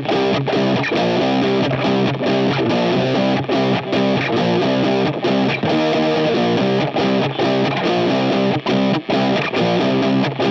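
Rock music led by a distorted electric guitar strumming chords in a steady rhythm.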